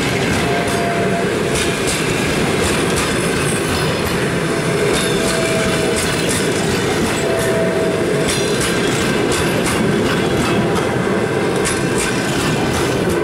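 Passenger coaches of a departing train rolling past close by: a steady rumble with wheels clacking over the rail joints, and a few short, faint squeals from the wheels.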